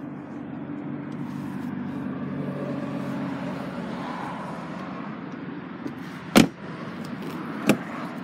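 Car door shutting with a loud thump about six seconds in, followed by two lighter knocks near the end. A steady low hum fades out over the first few seconds.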